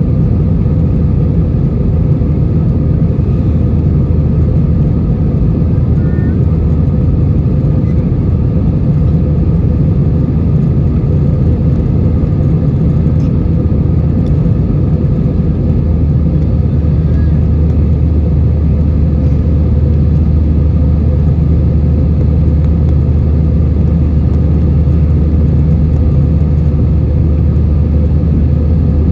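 Steady cabin noise of an Airbus A320-232: the even, loud low rumble of its IAE V2500 engines and airflow heard from inside the cabin. The deepest part of the rumble strengthens about halfway through.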